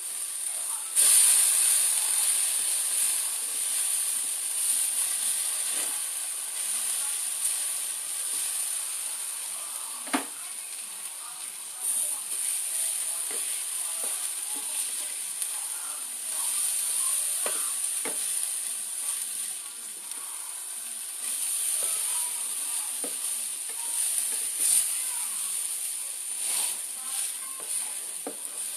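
Shredded potatoes frying into hash browns in a nonstick skillet: a steady sizzle that grows louder about a second in, with a few scrapes and taps of a plastic spatula against the pan as they are turned.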